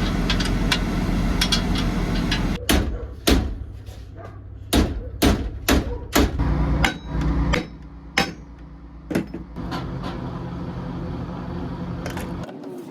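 Hammer striking metal in a series of irregular blows, over a steady low hum that cuts off suddenly near the end.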